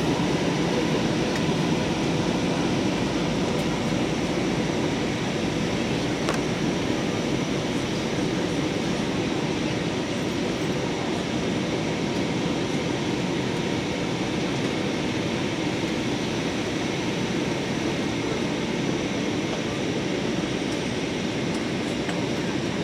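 Steady cabin noise of an airliner descending for landing: the even rush of engines and air, with faint steady tones above it.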